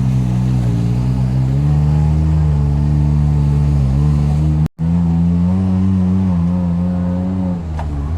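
Side-by-side UTV engine running at raised revs, its pitch stepping up about two seconds in. It cuts out for an instant just past halfway, then carries on at a higher, steady pitch before easing down near the end.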